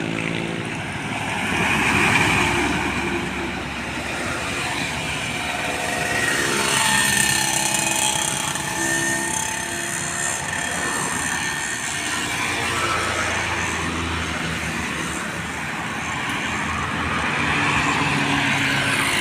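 Road traffic with heavy trucks passing, their diesel engines running, the engine notes rising and falling as vehicles go by.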